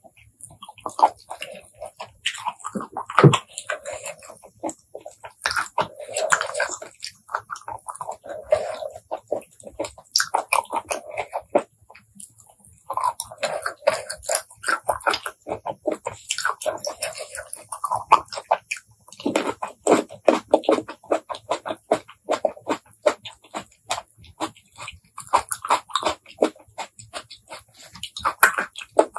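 Close-miked wet chewing and lip smacking of apple snail meat dipped in chili sauce, in bouts of quick clicky smacks with brief pauses.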